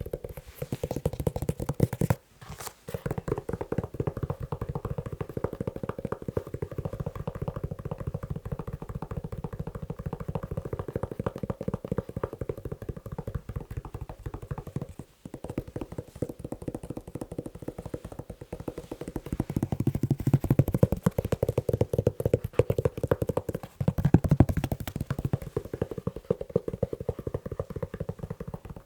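Fast tapping on a leather shoe: a rapid, continuous run of dull taps that breaks off briefly twice and gets louder for several seconds about two-thirds of the way through.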